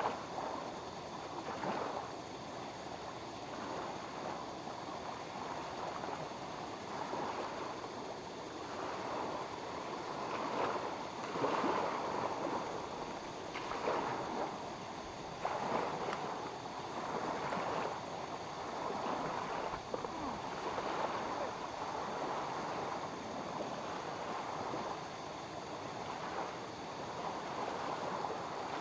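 Small waves lapping at a lakeshore: a steady wash of water noise that swells and falls back irregularly, with a surge every second or few.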